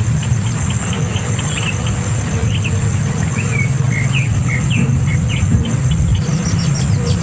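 A steady low rumble, with a series of short, high bird chirps in the middle, each going up or down in pitch.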